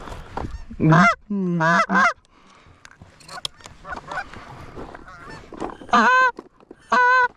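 Canada goose honks, loud and close: three around the first two seconds, then two more near the end, each breaking upward in pitch. Typical of hunters blowing goose calls to work a flock in to the decoys.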